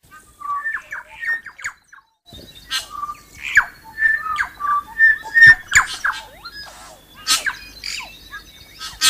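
Birds singing and calling: clear whistled notes mixed with short chirps and squawks, with a brief break about two seconds in.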